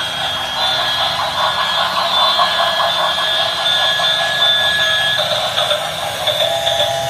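Train running sound from a model railway soundtrack: a steady mechanical noise with thin, high, steady whining tones that fade about five seconds in.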